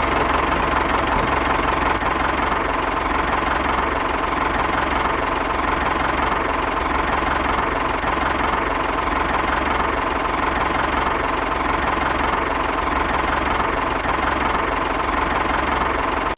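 Small engine of a homemade mini tractor running steadily at a constant speed, with a knocking, chugging texture; it cuts off suddenly at the very end.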